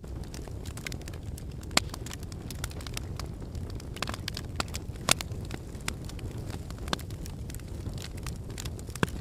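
Logs burning in a fireplace: a steady low rumble of flame with irregular crackles and sharp pops, the loudest about two seconds in, near the middle, and near the end.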